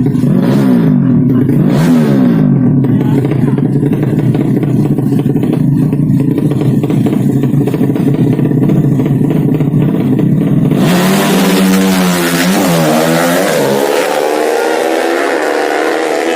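Modified 200cc underbone race motorcycle engines running loudly and being revved, the pitch swooping up and down. About eleven seconds in the sound changes suddenly to a sharper, brighter engine note that rises and falls several times and then climbs steadily, like a bike accelerating hard.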